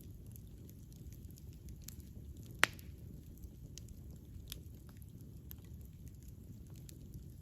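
Campfire burning with a low steady rumble and scattered small crackles, and one sharp loud pop about two and a half seconds in.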